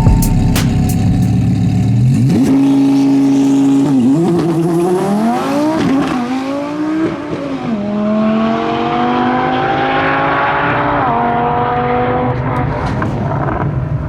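Twin-turbo Audi R8 V10 engine revving up and down, then accelerating with a long rising pitch that drops back about eleven seconds in.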